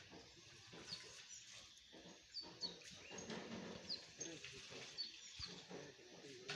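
Faint outdoor animal sounds: a bird giving short, high, falling chirps again and again, over faint low animal noises.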